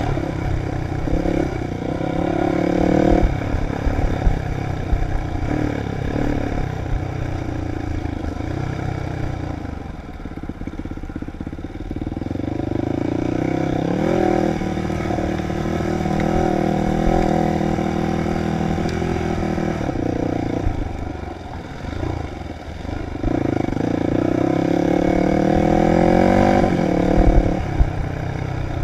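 Dirt bike engine being ridden, revving up and down with the throttle so its pitch rises and falls several times, easing off twice along the way.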